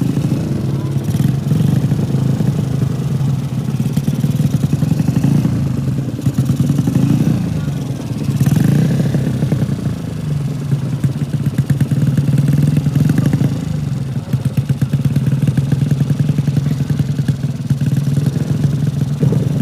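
Drag-racing motorcycle engines running steadily, with the pitch rising and falling as they are revved now and then.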